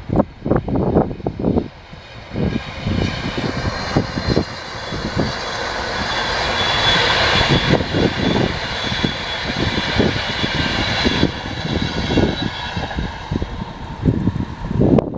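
A train passing at speed: a rushing sound with a high ringing whine that swells to a peak and fades about eleven seconds in. Wind buffets the microphone throughout.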